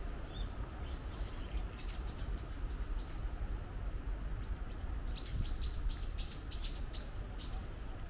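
A small bird calling in two quick bouts of short, high, downward-sweeping notes, the second bout longer, over a steady low rumble.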